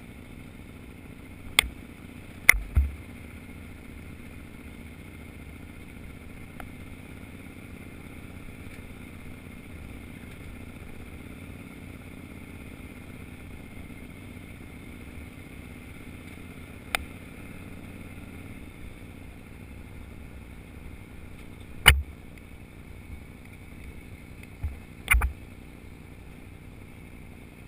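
Off-road motorcycle engine running steadily while riding a rough dirt trail, with a few sharp knocks scattered through, the loudest about two-thirds of the way in.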